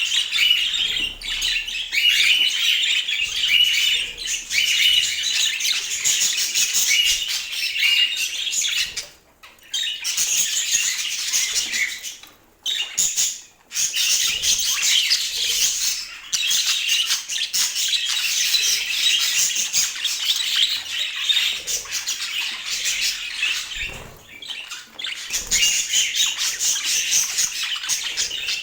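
Budgerigars warbling and chattering in a rapid, continuous stream of high chirps and squawks, broken by a few short pauses.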